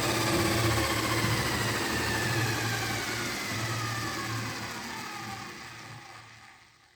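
Electric motor whine winding down: several high tones slide slowly lower over a steady low hum, and the whole sound fades out near the end.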